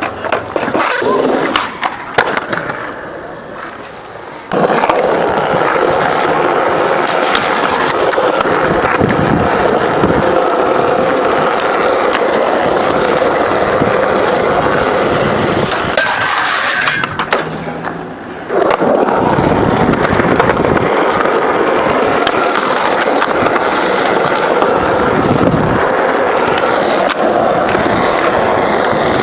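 Skateboard wheels rolling on concrete, loud and close for long stretches, with the sharp clacks of the board hitting and landing.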